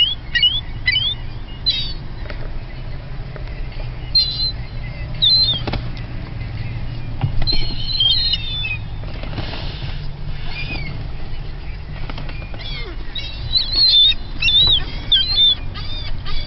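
Gulls calling in short, high squeals, in clusters near the start, in the middle and near the end, with wings flapping as they land and take off; a steady low hum runs beneath.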